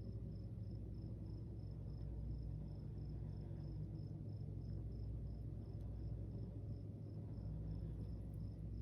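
Steady low hum of honey bees crowded on the comb of an observation hive, with a faint high chirp repeating about three times a second.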